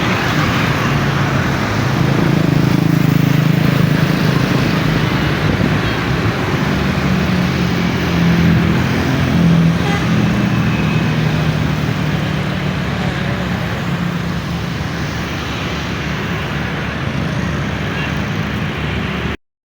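Diesel engine of a large double-decker coach running close by, over general traffic noise. The low engine note swells a couple of seconds in and again around eight to ten seconds in, and the sound cuts off suddenly near the end.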